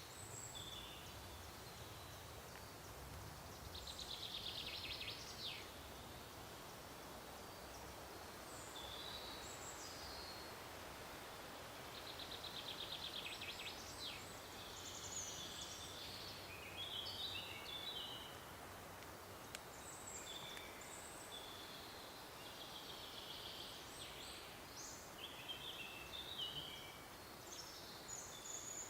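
Several songbirds singing and calling in turn, short chirped phrases and a couple of rapid trills, over a steady faint hiss.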